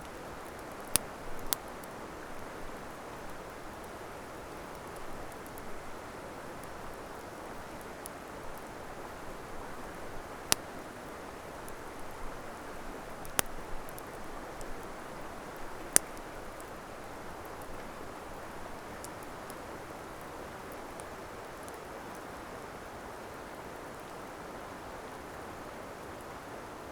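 Wood campfire burning: a steady hiss with scattered sharp crackles and pops, a few loud ones standing out among smaller ticks.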